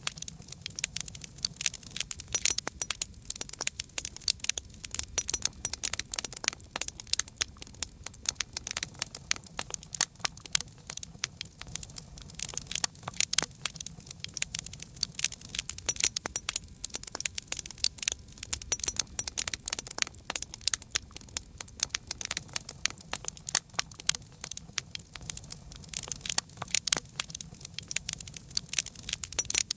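Wood fire crackling and popping: a dense, irregular stream of sharp snaps over a faint low rumble of the flames.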